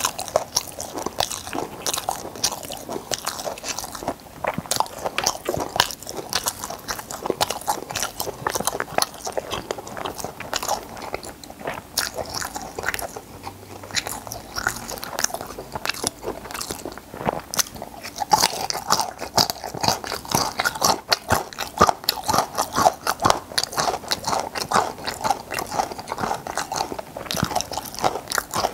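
Close-miked chewing of braised stingray: a dense run of short, wet clicks from the mouth as the fish and its soft cartilage are bitten and chewed.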